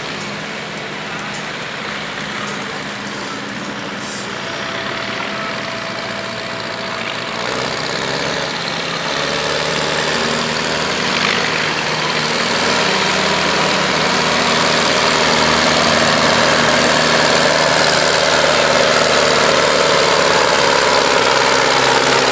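Belarus tractor's diesel engine working under heavy load on a pull, getting steadily louder over the first half and then holding loud.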